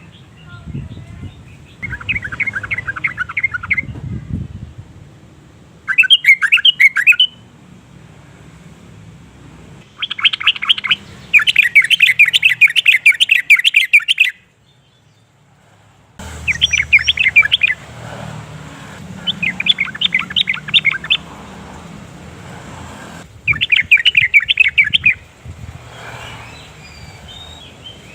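Yellow-vented bulbul singing: about seven loud bursts of rapid, bubbly chattering notes, each a second or two long, with short pauses between them.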